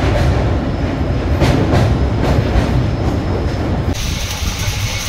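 Passenger train running over a steel truss bridge: a heavy steady rumble of wheels on rails with irregular clacks. About four seconds in the sound changes abruptly to a different, hissier background.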